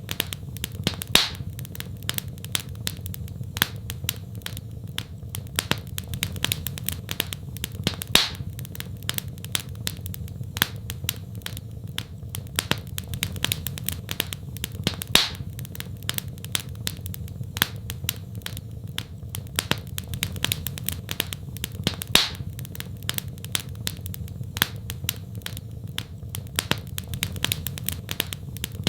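Fireplace fire crackling: a steady stream of small sharp crackles, with a louder pop about every seven seconds, over a low steady rumble.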